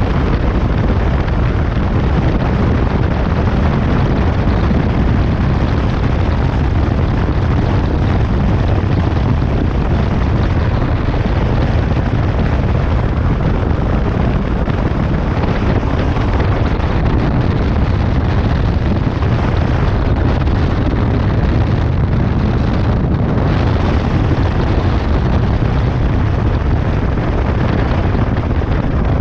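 Loud, steady wind buffeting the microphone over the running engine of a motorcycle on the move.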